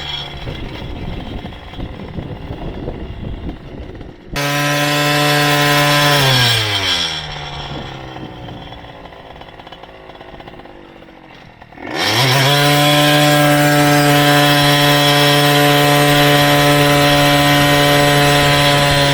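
Motorized bicycle's small engine buzzing at high revs. It cuts in abruptly about four seconds in, runs steady, winds down as the throttle comes off, then revs up sharply about twelve seconds in and holds a steady cruising pitch.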